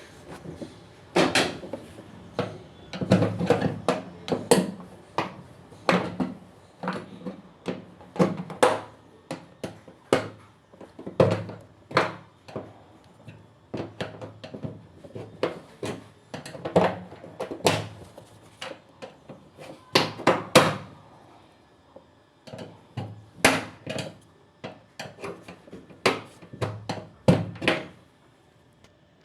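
Irregular knocks, clicks and clatter of hands and tools working on a fully automatic washing machine's panels and parts, some strikes close together and some a second or more apart.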